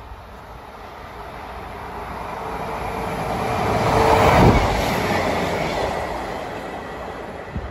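A British Rail Class 150 Sprinter diesel multiple unit passing through at speed without stopping. Its engine and wheel noise builds for about four seconds, peaks as it goes by about four and a half seconds in, then fades as it runs away.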